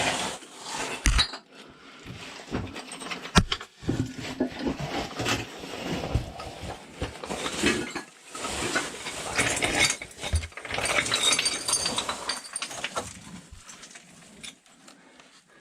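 A caver squeezing and crawling through a tight rock crack: irregular scraping, shuffling and knocks of body and gear against rock, easing off near the end.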